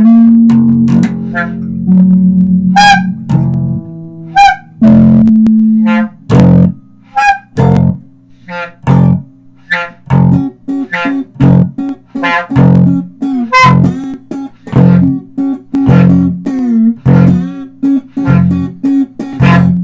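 Amplified plucked string instrument playing single notes. At first some notes ring on; from about six seconds in it plays short, clipped notes in a steady rhythm.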